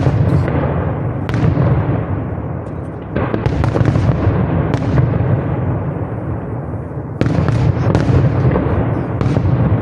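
Fireworks display: aerial shells bursting in a rapid series of loud, sharp bangs, each trailing off in a long echoing rumble that runs on continuously between the bursts.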